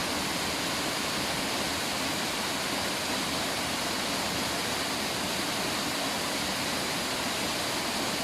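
River water rushing steadily, a constant even noise with no separate splashes.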